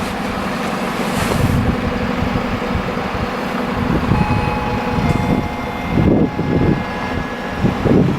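Regional passenger train running through the station, a steady low rumble with wind buffeting the microphone; thin steady whining tones join in about halfway through.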